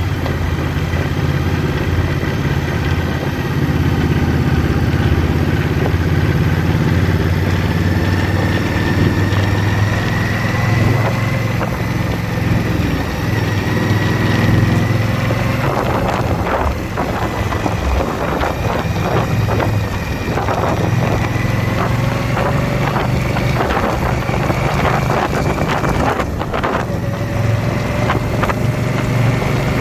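Indian V-twin motorcycle engine running steadily at cruising speed, with wind rushing over the microphone. The wind turns rougher and gustier through the second half.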